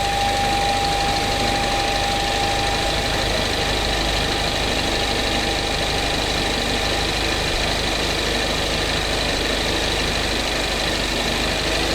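Peugeot 408 THP's engine idling steadily with the automatic gearbox in reverse, as the old transmission fluid is pumped out during a fluid exchange. A thin steady whine over it fades out about halfway through.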